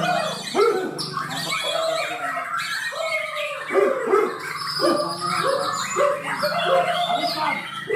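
Several Bornean white-rumped shamas (murai batu Borneo) singing together, with loud, quick, varied phrases full of short sweeping notes and harsh calls.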